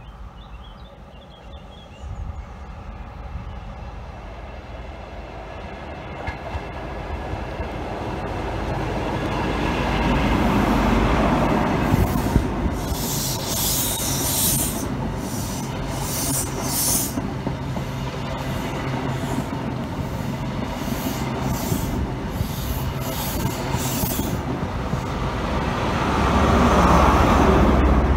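East Midlands Trains InterCity 125 diesel express passing at speed. It swells as the leading power car goes by, then the coaches rattle past with a run of rapid wheel clicks. A second, louder swell with a steady low drone near the end is the rear power car passing.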